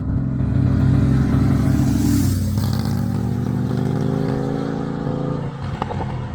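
Harley-Davidson motorcycle V-twin engine running on the road; its pitch drops about two seconds in, then climbs slowly as the bike accelerates.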